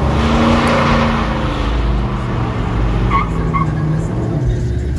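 Vehicle engine running loudly with a skidding tyre noise, loudest in the first second and a half, and two short high squeaks about three seconds in.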